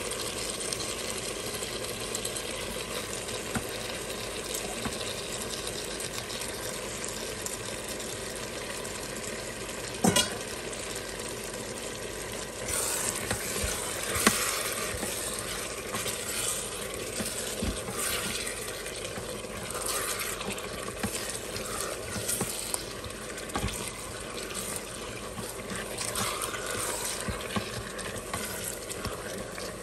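Cow tripe, onions, peppers and tomatoes sizzling steadily in oil in a pot. One sharp knock comes about 10 s in. From about 12 s on, a spoon stirs the pieces with irregular scraping strokes against the pot.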